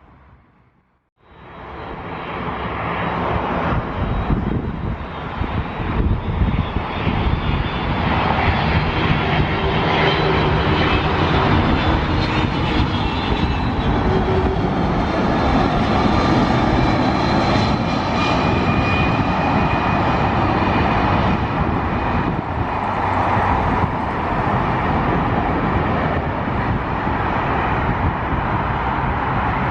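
Jet airliner engines running loud and sustained, with a high whine over a deep rumble. The sound cuts in after a brief drop-out about a second in.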